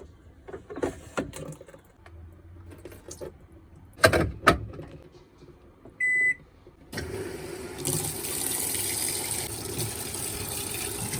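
Washing machine being started: a few knocks and two loud bangs, a single short beep about six seconds in, then water rushing in steadily to fill the drum.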